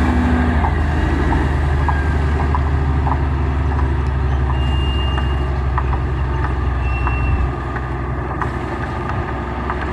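Diesel engine of heavy road-construction machinery running steadily, with scattered light clicks and knocks. The low engine note drops a little about seven and a half seconds in.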